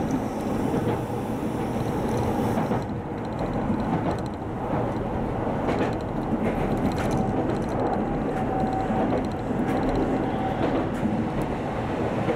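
Keihan Keishin line electric commuter train running, heard from the front of the train: a steady rumble of wheels on rail with a few sharp clicks, and a faint whine briefly near the middle.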